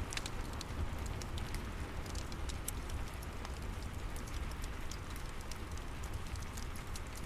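Steady rain with a wood fire crackling, sharp little pops scattered throughout over a low, even rumble.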